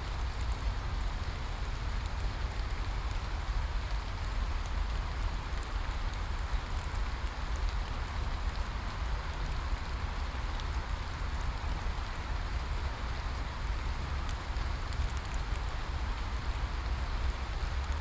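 Steady rain falling: an even hiss scattered with fine drop ticks, over a low rumble.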